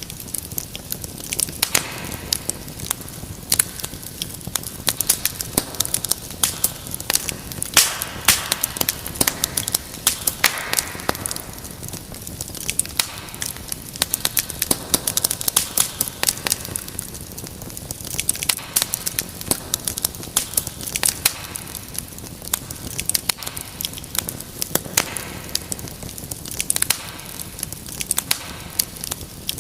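Wood fire crackling in a fireplace: a steady run of sharp pops and snaps over a low hiss.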